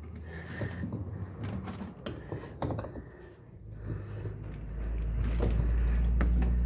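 A 13 mm spanner working the self-locking nut on a washing machine gearbox pulley: scattered metallic clicks and knocks. A loud low rumble sets in about four and a half seconds in.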